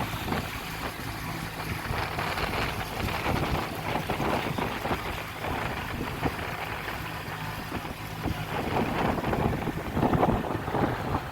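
Tour boat's engine running steadily under way, with wind buffeting the microphone and water rushing and splashing along the hull.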